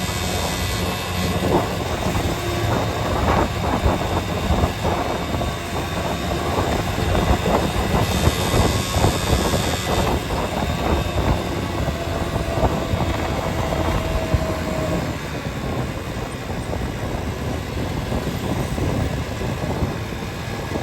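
Car travelling along a road: a steady low rumble of engine and tyres, with frequent knocks and rattles throughout.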